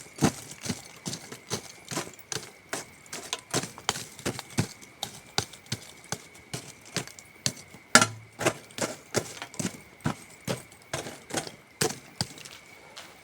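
Wood campfire crackling, with irregular sharp pops and snaps several times a second and one louder pop about eight seconds in. Behind it runs a faint, steady, high-pitched trill of crickets.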